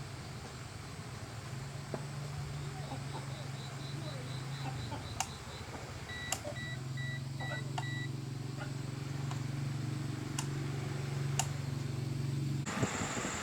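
A quick run of about ten short, high electronic beeps, then a slower series of about five beeps on two pitches at once, over a steady low motor hum, with a few sharp clicks.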